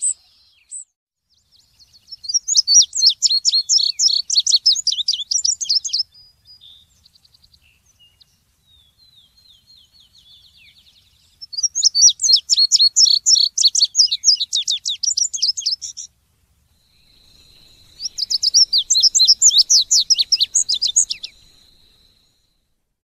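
A songbird singing three bursts of fast, high, trilled song, each about four seconds long, with soft twittering between them.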